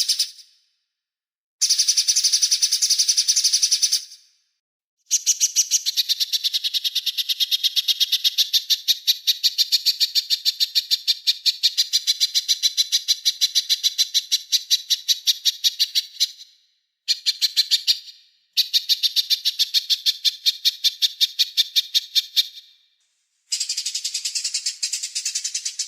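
A small songbird singing in fast runs of sharp, high repeated notes. It comes in several bursts lasting from about one to ten seconds, with short pauses between.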